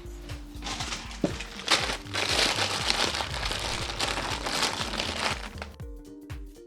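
Crinkling, rustling handling noise as small electronic parts are handled while fitting new tactile button switches, with two sharp clicks about a second in.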